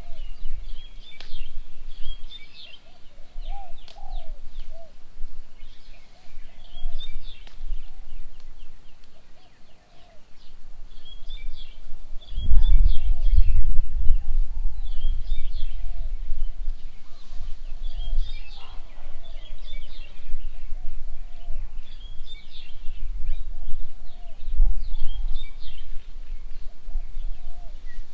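Several birds singing and calling, with repeated short chirping phrases over lower call notes. A low rumble comes in about halfway through and returns near the end.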